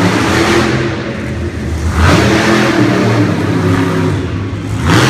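Monster truck engine revving hard in repeated surges, its engine note overlaid by a loud rushing noise that swells about two seconds in and again near the end.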